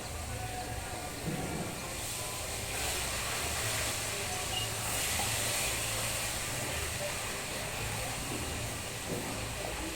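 Rain falling, a steady hiss that swells a little about three seconds in and eases again after six, over a low steady rumble.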